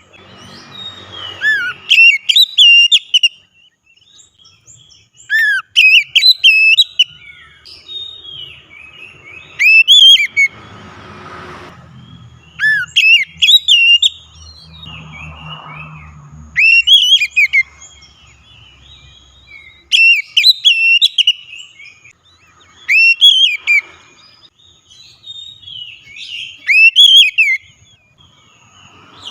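Oriental magpie-robin (kacer) singing loud, clear whistled phrases of rising and falling notes, repeated every three to four seconds with short pauses between them.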